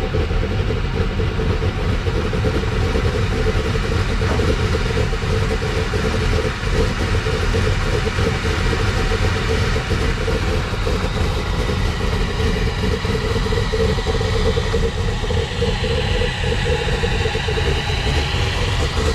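The Pontiac Trans Am WS6's V8 engine running at a steady idle.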